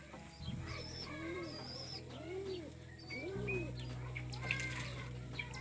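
Domestic pigeons cooing, a low rise-and-fall coo repeated about once a second, with higher short chirps over them.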